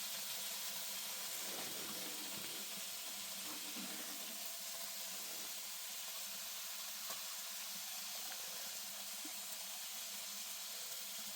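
Food sizzling steadily in a hot pan: an even frying hiss with a few faint clicks.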